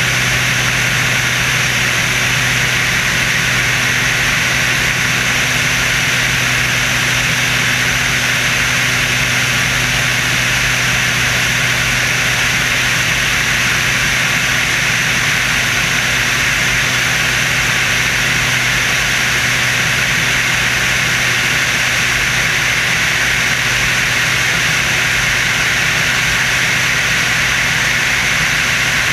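Steady, loud engine drone and rushing air of the Screamin' Sasquatch, a jet-boosted Waco biplane, heard on board in flight, holding an even hum with no change in pitch.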